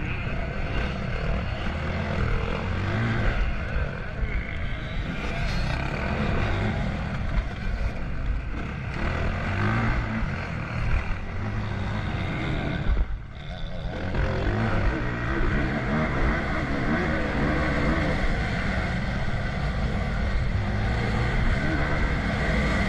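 Motocross bike engine running hard as it accelerates and rides through corners, heard up close from an onboard camera. The sound dips suddenly for a moment about halfway through.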